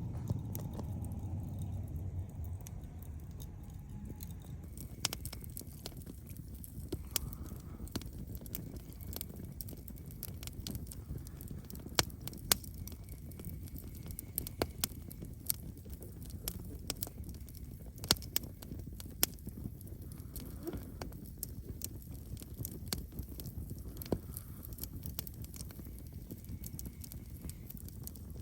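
Wood campfire crackling, with irregular sharp pops and snaps over a steady low rush of burning.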